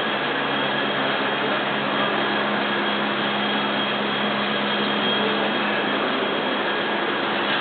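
Nissan S14 with a turbocharged SR22DET four-cylinder running steadily through a Tomei Expreme Ti titanium exhaust: an even, unchanging rush with a low hum underneath.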